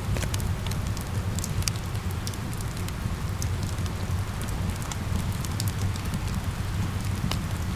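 Steady rain mixed with a wood fire crackling, with scattered sharp pops over a constant low rumble.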